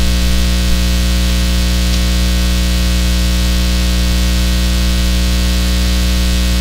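Loud, steady electrical hum: a buzz with many even overtones over a hiss, unchanging throughout. It is typical of mains hum or a ground loop on an open audio feed.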